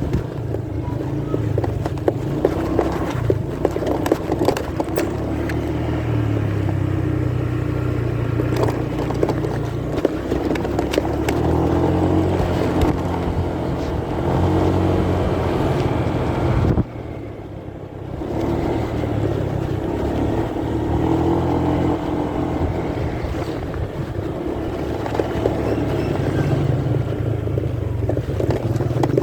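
Motorcycle ride heard through a phone in a pocket: a muffled engine running, its pitch rising and falling, under fabric rubbing and scraping against the microphone. The level drops sharply for about a second just past the middle.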